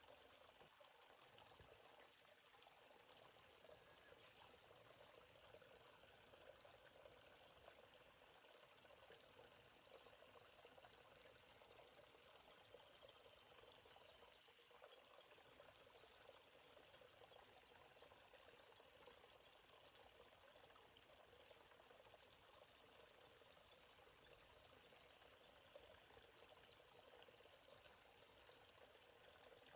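A steady, high-pitched insect chorus running continuously over the soft, even rush of a flowing forest stream.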